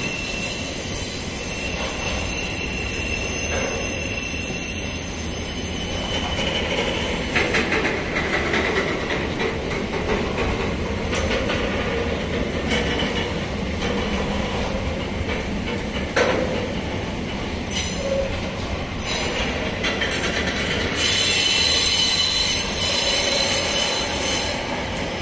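Loaded container-train wagons rolling past: a steady rumble of steel wheels on rail with scattered clacks, and a high-pitched wheel squeal that is loudest near the end.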